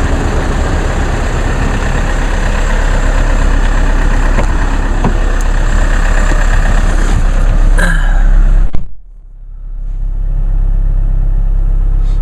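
Diesel car engine idling shortly after a cold start, with a steady rushing noise over the rumble. About nine seconds in the rushing cuts off suddenly, leaving a quieter engine rumble that builds back up.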